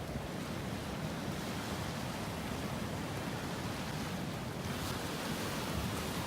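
Steady, unbroken wash of ocean surf, with some wind.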